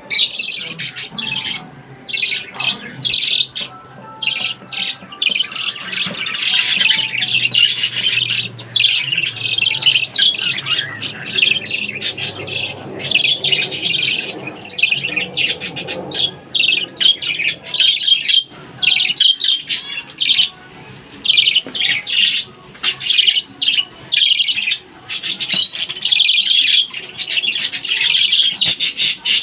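Pet birds chattering and squawking with many quick, high calls overlapping throughout.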